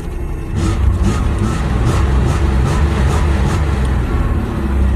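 1991 Chevrolet S-10 Blazer's engine running just after a cold start, getting louder about half a second in, with a light regular tick about three times a second.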